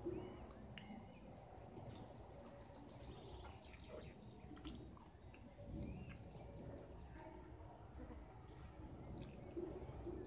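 Faint, scattered bird chirps, with a quick high trill about three seconds in, over low steady background noise.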